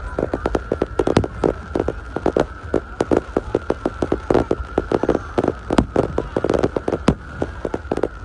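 Firecrackers going off in a rapid, irregular string of sharp pops, several a second, over a faint steady high tone.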